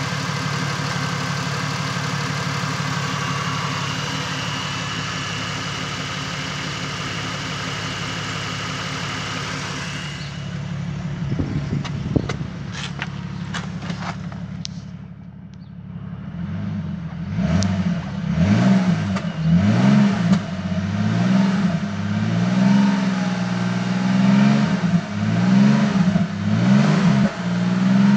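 2008 Ford FG Falcon XR6's 4.0-litre inline-six petrol engine idling steadily, then, after a few knocks in the middle, revved over and over in Park to about 3,000 rpm. Each blip rises and falls in pitch.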